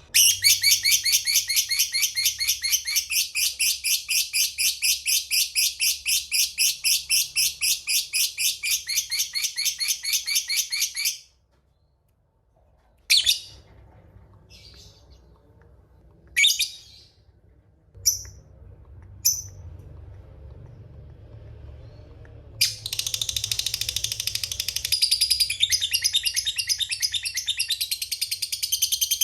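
Lovebird singing its long 'ngekek' chatter, a fast run of high, evenly repeated notes that lasts about eleven seconds. It breaks off into a few single sharp chirps, then starts again in a second long chatter near the end.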